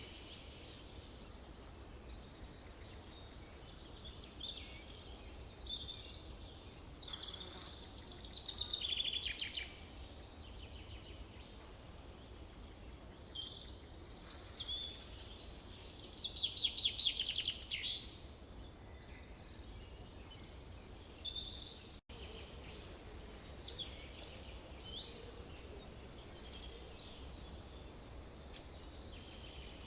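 Forest birdsong: several songbirds chirping and whistling, with two louder rapid trills about eight and seventeen seconds in, over a faint steady low rumble. The sound cuts out for an instant about two-thirds of the way through.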